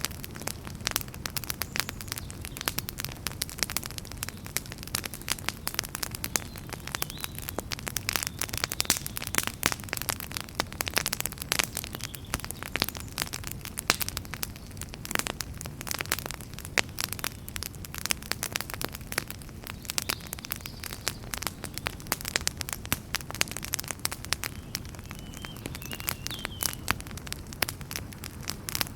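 Wood fire burning in a fireplace, crackling with dense, irregular snaps and pops over a low, steady rumble of flames.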